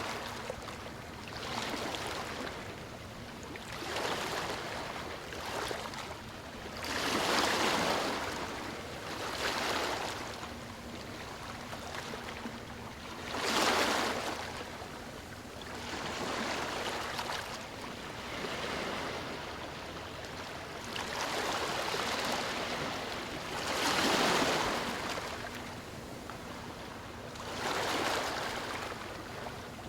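Gentle ocean waves lapping on a shore, a soft wash of water that swells and fades every few seconds, some washes stronger than others.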